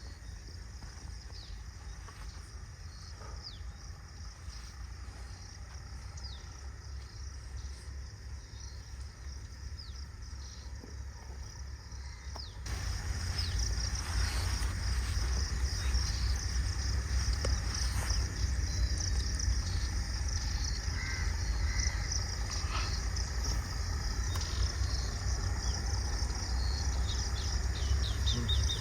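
Rural field ambience: insects chirping in a high, dense band, with short bird calls, over a steady low rumble. It all becomes louder about halfway through.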